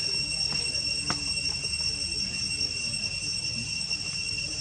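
Steady high-pitched drone of insects, several unbroken shrill tones held level, with a single sharp click about a second in.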